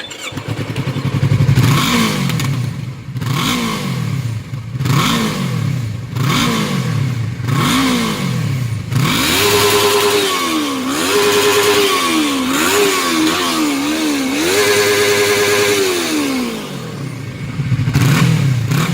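Yamaha MT-03 motorcycle engine revved with its exhaust end can removed, leaving the open pipe. It gives a series of short throttle blips about every second and a half, then several longer revs held high with quick blips between, and drops back to idle near the end.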